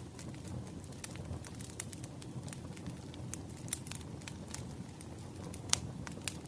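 Wood fire crackling: a steady low rush with frequent small sharp pops and one louder pop near the end.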